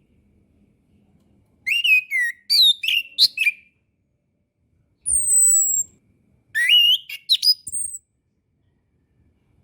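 Chestnut-capped thrush singing: a quick phrase of varied, sliding whistled notes, then a single thin high whistle that slides down, then another quick phrase of rising notes.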